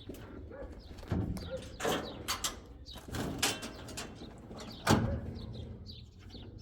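A handful of irregular knocks and thuds, the loudest about five seconds in.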